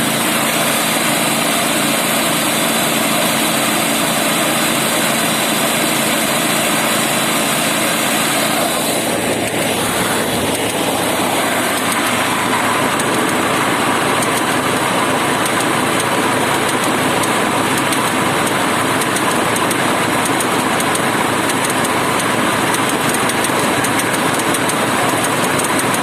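Snowblower's small petrol engine running steadily; its note shifts about nine seconds in.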